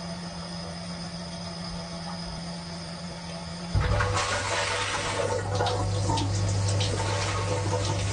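Dishwasher running, heard from inside the tub: a steady low hum, then about four seconds in the sound jumps louder as the wash pump kicks in and water sprays steadily over a deeper hum.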